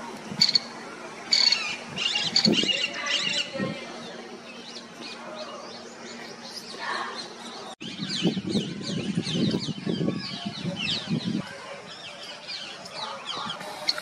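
Wild birds chirping and calling: many short, quick high notes throughout, in clusters. After about eight seconds a lower, pulsing sound joins them for a few seconds.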